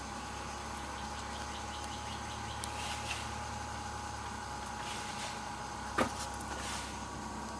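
A car engine running at a steady pitch, with a single sharp click about six seconds in.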